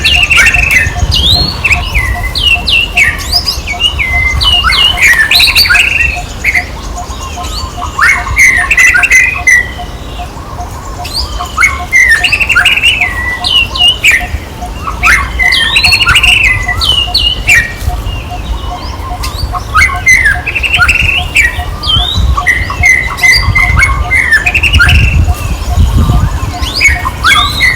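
Repeated high-pitched squeaky animal calls, short and in quick clusters with jumps in pitch, over a low rumble and a faint steady pulsing tone.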